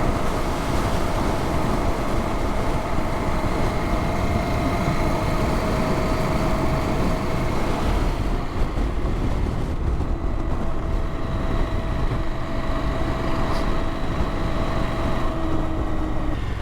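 Adventure motorcycle riding at a steady pace, its engine hum mixed with wind and road noise.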